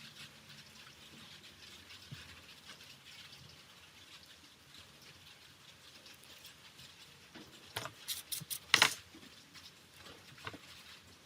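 Light scratchy tapping of small hard parts being handled, then a quick run of sharp clicks about three-quarters of the way through, the loudest one near the end of that run.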